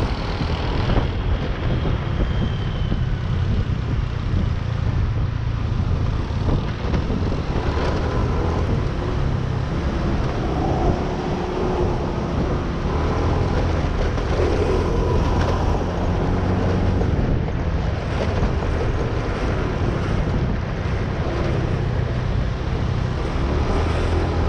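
Motorcycle running on the move, with wind rumbling over the camera microphone.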